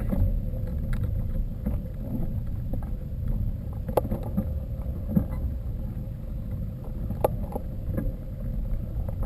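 Mountain bike riding over rough ground: a steady low rumble with a few sharp rattling clicks and knocks.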